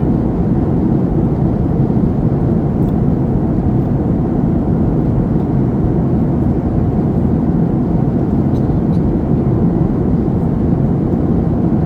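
Steady low rumble of a passenger airliner's engines and rushing air, heard inside the cabin on the landing approach.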